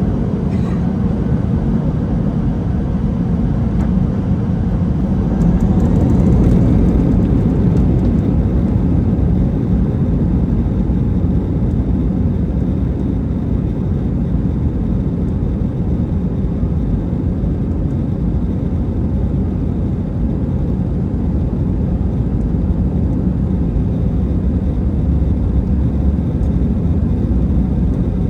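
Jet airliner's engines and airflow heard from inside the cabin: a loud, steady low roar, swelling slightly about six seconds in.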